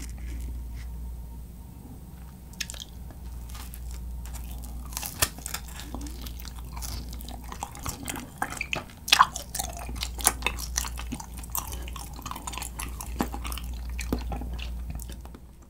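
Close-up chewing of grilled kirimochi rice cake dipped in honey, with many sticky, wet mouth clicks. A low steady hum runs underneath.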